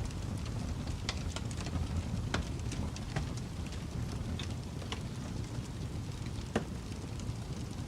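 Wood fire burning in a fireplace: a steady low rumble of flames with scattered sharp crackles and pops, the loudest pop about six and a half seconds in.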